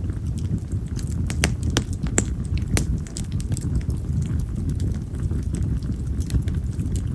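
Yamazakura (wild mountain cherry) firewood burning in an open fire: a steady low rumble with scattered sharp crackles and pops. A few louder pops come between about one and three seconds in.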